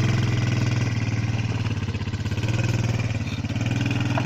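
ATV engine running steadily at low revs, with an even rapid pulse and slight swells in level.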